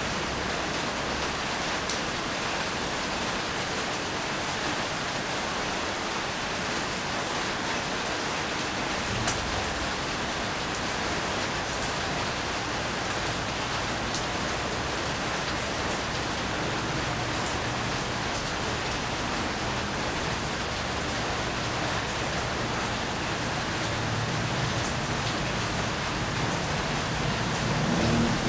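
Steady rain falling, with scattered drops striking close by as sharp ticks, the loudest about nine seconds in. A low rumble builds near the end.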